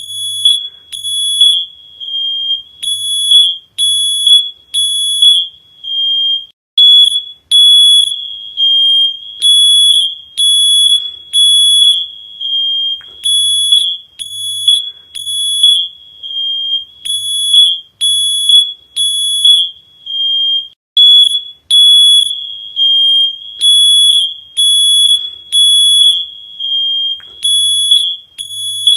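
Electronic alarm beeping: a loud, high-pitched beep about once a second, in short groups with brief pauses between.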